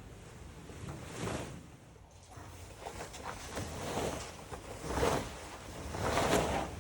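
Fabric rustling and swishing in repeated swells as a car cover is pulled off the truck.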